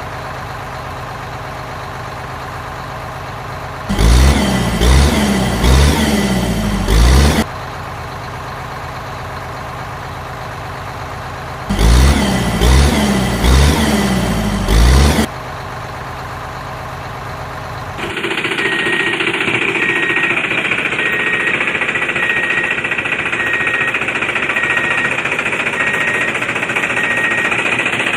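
A vehicle engine running steadily, swelling into two louder pulsing stretches a few seconds apart. After that it gives way to a louder, steady grinding noise with a faint, rapid, high beeping.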